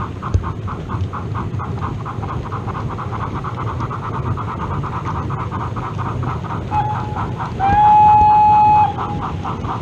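Sound-fitted OO gauge DCC model steam locomotive chuffing at an even pace, about four to five beats a second. Its whistle gives a short toot about seven seconds in, then a louder steady blast of just over a second.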